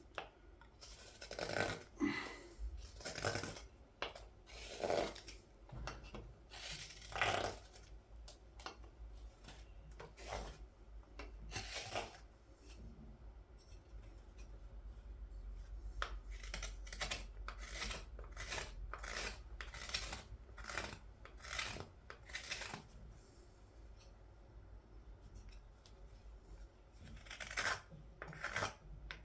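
Carving blade slicing shavings from green wood: separate, irregular cuts, one every second or two, with a pause of a few seconds midway, as the scoop is shaped by removing wood quickly.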